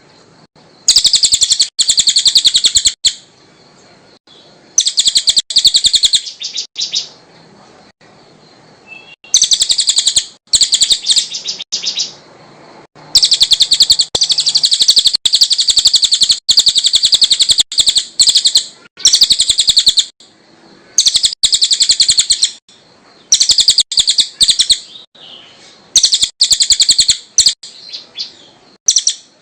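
A cililin songbird singing: loud, high, very rapid trilled phrases of one to three seconds, repeated after short pauses.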